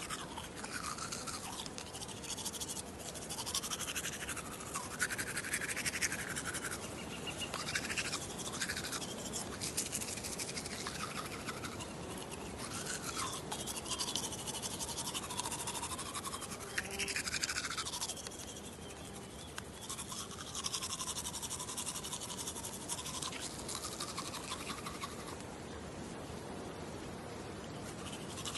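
Teeth being brushed close to the microphone: continuous toothbrush scrubbing strokes, the tone shifting up and down as the brush moves around the mouth.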